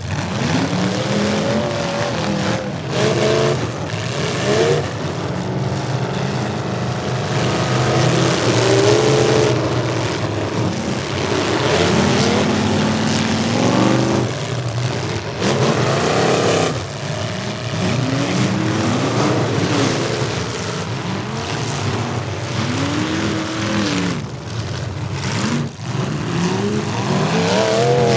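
Several demolition derby cars' engines revving up and falling back over and over, overlapping one another, with the bangs of car-to-car hits mixed in.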